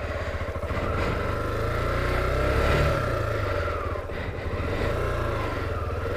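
Honda XR250L's single-cylinder four-stroke engine running at low revs as the bike is ridden slowly along a dirt trail, the revs rising a little a few seconds in and then easing off.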